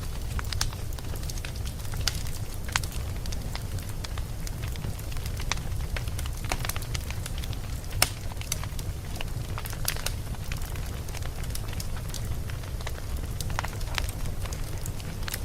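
Campfire burning, with irregular crackles and pops over a steady low rumble. One sharper pop comes about eight seconds in.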